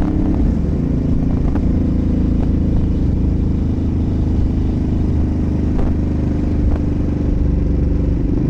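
Ducati SuperSport 950 S's 937 cc L-twin engine running at a steady cruise, heard from on board, with a few faint clicks.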